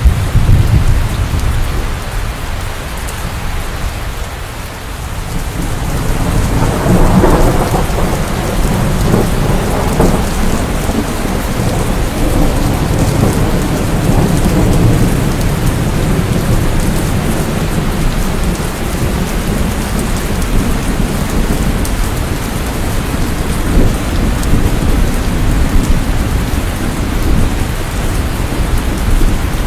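Steady heavy rain with rolling thunder. A deep rumble is loudest right at the start, and another peal swells about seven seconds in, then rolls on low beneath the rain.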